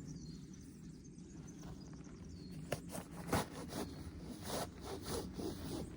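A run of short, rasping scrapes starting about halfway through, over a steady low rumble.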